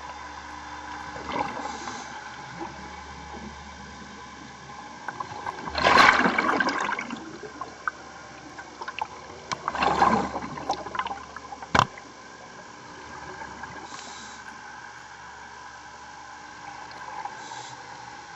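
Underwater bursts of a scuba diver's exhaled bubbles gurgling past the microphone, about every four seconds, over a steady hum, with one sharp click between the last two bursts.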